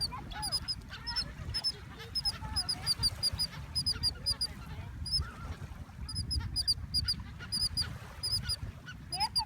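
Small birds calling: rapid, short, high chirps repeated about two to three times a second, with a few lower sliding squawks mixed in. A low rumble runs underneath.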